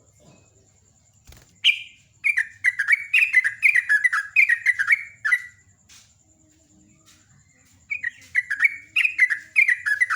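Yellow-vented bulbul singing two bouts of its fast rolling chattering song, quick runs of short falling notes, the first starting about two seconds in, the second near the end.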